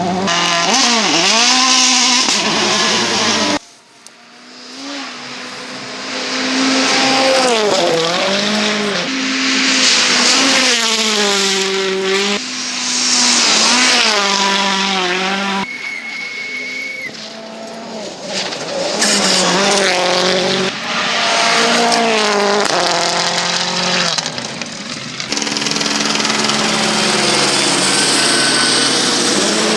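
Rally cars at speed on a stage, one after another, their engines revving hard and the pitch sweeping up and down through the gears as each car passes. The sound changes abruptly every few seconds as one car gives way to the next.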